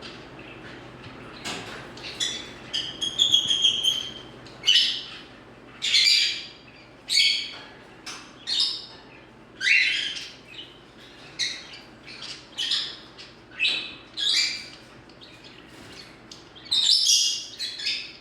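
Green-cheeked conure calling: a short whistled note about three seconds in, then harsh squawks repeated roughly once a second.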